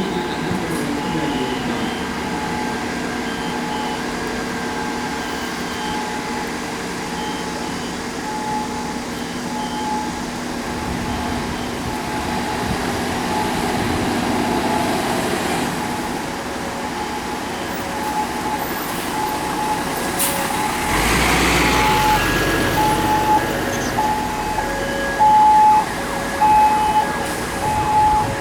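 Emergency-vehicle siren wailing in a steady hi-lo pattern, alternating between two pitches, over running vehicle engines. About twenty-one seconds in, a heavy vehicle passes close with a louder engine rumble.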